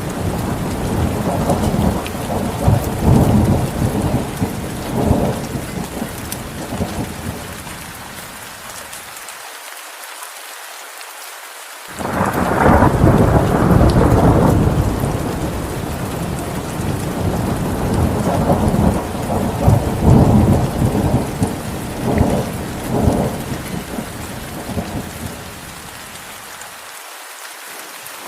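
Heavy rain falling steadily with rolling thunder. The rumbles die away, and about twelve seconds in a loud thunderclap breaks in, followed by more rumbling that fades again near the end.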